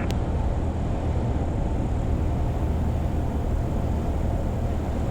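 Cessna 172's piston engine and propeller droning steadily, heard inside the cabin. A short click sounds right at the start.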